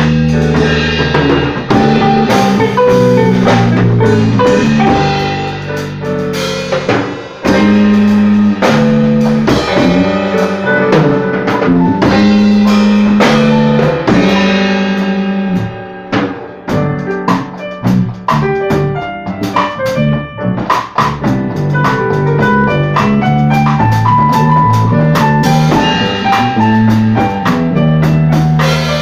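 A band playing a song on drum kit and guitar, with sustained chords and steady drum hits. The music briefly drops away about seven seconds in, then carries on.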